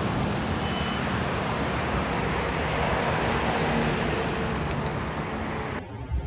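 Steady vehicle engine and road noise, like passing traffic, that cuts off suddenly near the end.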